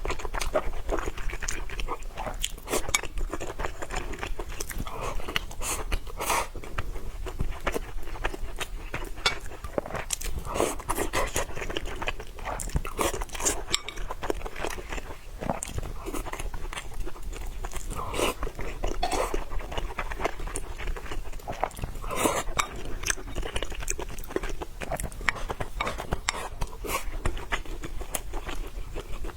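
Close-miked chewing and biting, with many small crunches and wet clicks: a person eating noodles with fried pork tendon.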